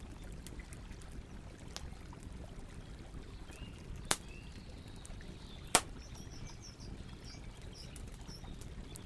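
Campfire crackling, with two sharp pops of burning wood about four and six seconds in and a fainter one near two seconds. Birds chirp briefly over a steady low rush of running water.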